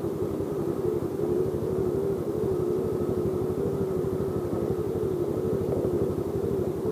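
Yamaha Jupiter Z motorcycle's single-cylinder four-stroke engine running at a steady speed, a rapid even pulsing with a slightly wavering drone.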